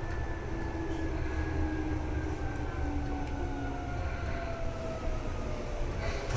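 Seibu 2000 series electric train running, heard from inside the carriage: a steady low rumble of wheels on rail, with a faint motor whine falling slowly in pitch. A sharp clatter comes near the end.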